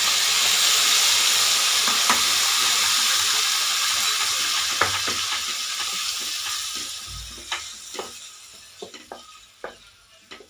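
Tomato purée sizzling in hot mustard oil with crushed spices in a steel pot, stirred with a wooden spatula. The sizzle dies away over the last few seconds, leaving scattered knocks of the spatula against the pot.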